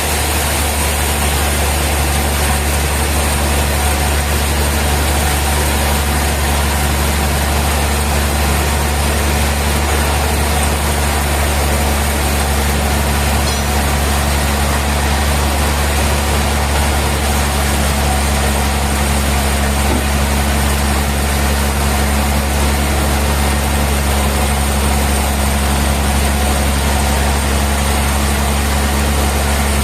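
Sawmill machinery running steadily: an even, low engine-like drone with a few steady tones above it, unchanging throughout.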